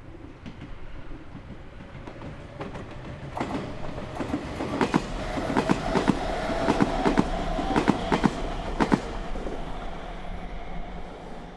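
Meitetsu Nagoya Main Line train passing, its wheels clicking over the rail joints in quick pairs. The rumble builds from about three seconds in, is loudest between about five and nine seconds in, and dies away near the end, with a steady hum under the clatter.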